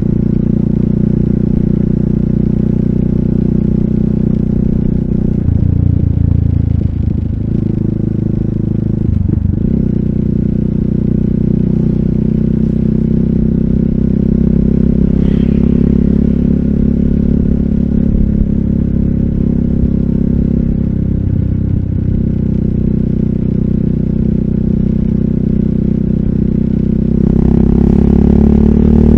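RUSI Classic 250Fi single-cylinder engine running through an Eli's Muffler full exhaust with a bullet pipe and dB killer, heard while riding. The steady exhaust note dips briefly a few times, and the revs rise near the end as the bike accelerates.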